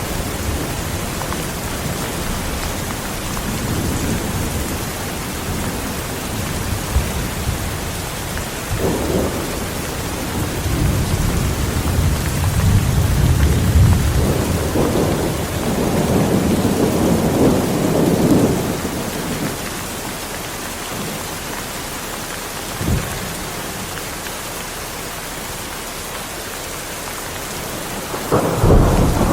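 Heavy rain falling steadily, with thunder: a long rolling rumble swells through the middle, a short crack comes later, and a loud clap near the end.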